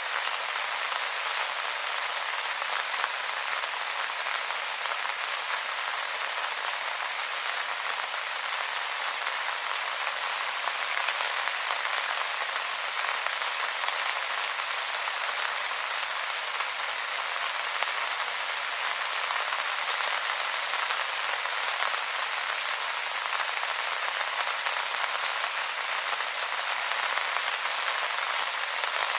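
Steady rain falling on wet leaves: an even hiss of many drops with fine pattering, its level unchanging.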